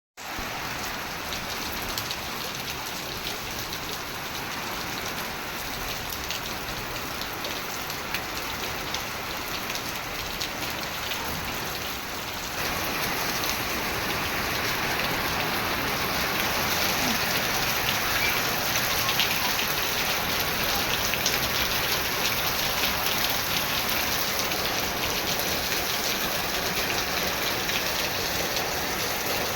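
Torrential rain pouring down, with a dense hiss of drops striking surfaces. It becomes louder from about twelve seconds in.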